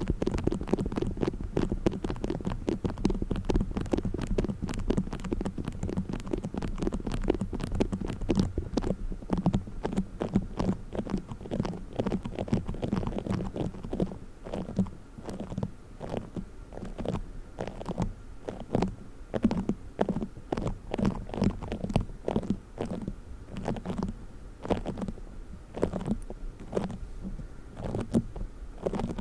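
Play foam being squeezed and kneaded right at the microphone: a dense, irregular crackling and popping over a soft low rumble. The crackles thin out to separate pops in the second half.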